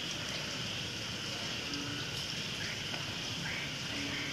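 Heavy rain falling steadily, an even hiss. A short low note sounds about two seconds in and again near the end.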